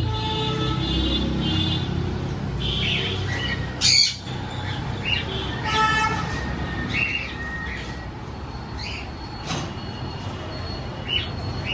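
Cockatiels chirping and calling, with a loud harsh squawk about four seconds in, over a low background rumble.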